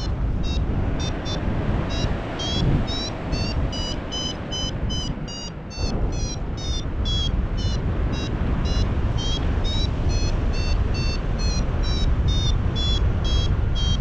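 Paragliding variometer beeping rapidly, a few short beeps a second with the pitch stepping up and down: the climb tone that signals the glider is rising in lift. Strong wind rushes over the microphone underneath.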